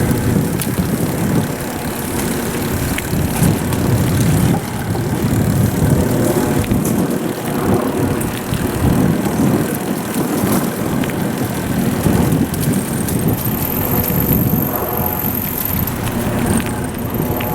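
Wind rushing over a GoPro's microphone while riding a bicycle: a loud, uneven rumble that rises and falls.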